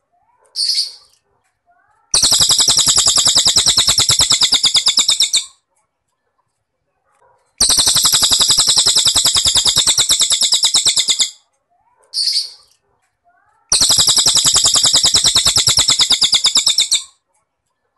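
Looped song-tutoring recording: three long, rapidly pulsed cricket trills, each about three and a half seconds, with a short high cililin bird call in two of the gaps between them.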